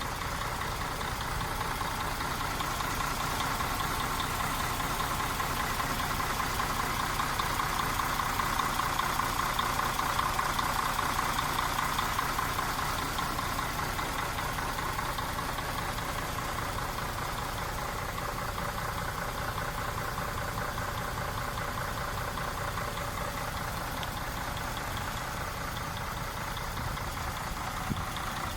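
MAN TGA 18.360 truck's inline-six diesel engine idling steadily, a little louder in the middle.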